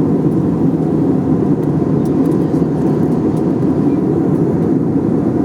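Steady cabin noise of an airliner in flight during descent: an even, low rush of engine and airflow noise that does not change.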